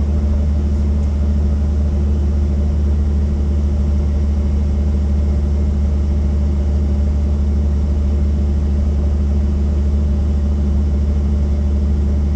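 Helicopter running steadily, its rotor and engine making a loud, even low drone with no change in pitch.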